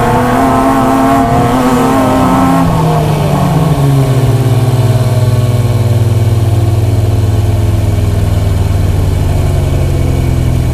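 First-generation Acura NSX's mid-mounted V6 heard from inside the cabin, held at high revs, then the revs drop about three seconds in and settle into a steady, lower drone.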